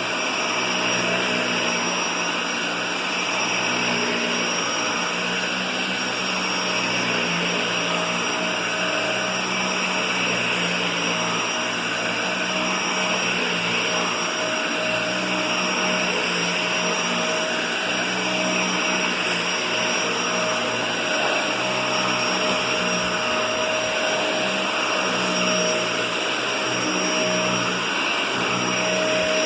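Vacuum cleaner running steadily, its motor giving an unbroken hiss with a steady whine.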